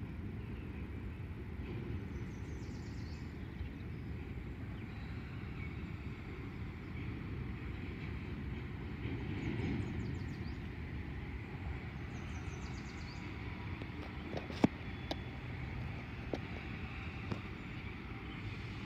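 Covered hopper cars of a freight train rolling along the rails, a steady low rumble, with a sharp knock about three quarters of the way through and a few lighter clicks.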